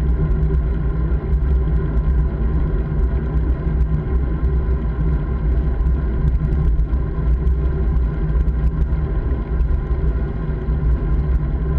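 Steady low rumble of wind and road noise from a bike in motion, with many small clicks and rattles throughout.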